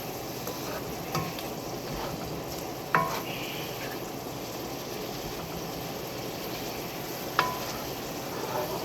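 Red wine reduction with mushrooms and shallots sizzling steadily in a skillet as it cooks down. A utensil knocks against the pan with a short ring three times: about a second in, about three seconds in, and near the end.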